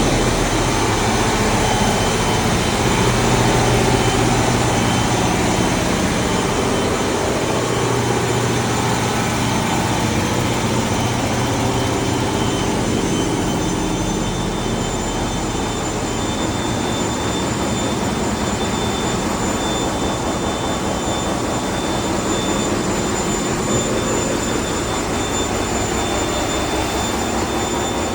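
Ship's engine-room machinery with the MaK marine main diesel engine running: a loud, steady din with a low hum and a few constant whining tones, a higher whine becoming clearer about halfway through.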